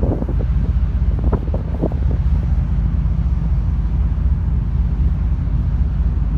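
Steady low rumble of a car ferry's engines under way, with wind buffeting the microphone.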